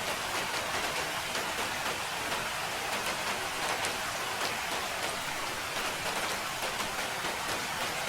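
Steady rain falling: an even hiss with many small, sharp drop impacts scattered through it.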